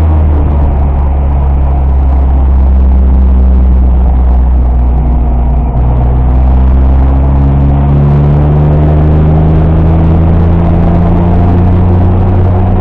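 Car engine heard from inside the cabin, holding a steady low note for about the first six seconds, then dipping briefly and rising slowly in pitch as the car accelerates.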